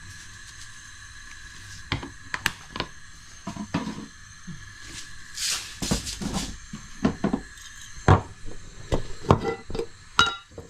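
Kitchen clatter: scattered clinks and knocks of a pot, spice containers and a spoon while whole spices go into the pot. About halfway there is a short rattling, shaking sound.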